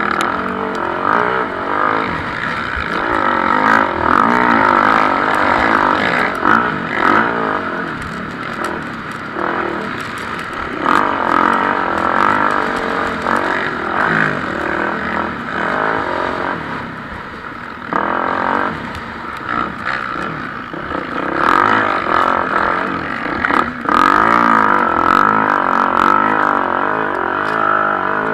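Several MX1-class motocross bikes racing, their engines revving up and down and overlapping as riders open and shut the throttle, with frequent sudden cuts.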